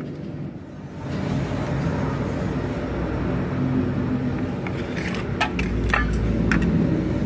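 A motor or engine running steadily with a low hum, with several sharp clicks or knocks about five to six and a half seconds in.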